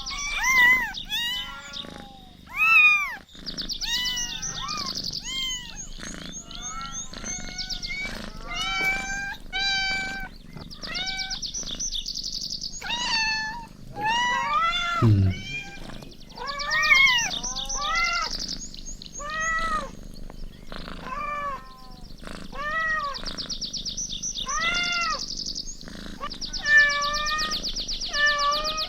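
Kittens meowing over and over, a string of short, high-pitched mews that rise and fall in pitch, sometimes overlapping. Now and then a brief, rapid high trill sounds between the calls.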